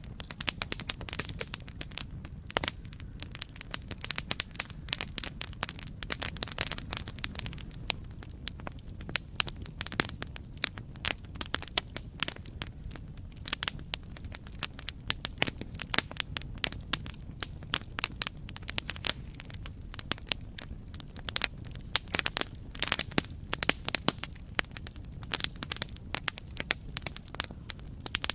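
Campfire crackling: wood burning with a dense run of irregular sharp pops and snaps over a low, steady rumble of the flames.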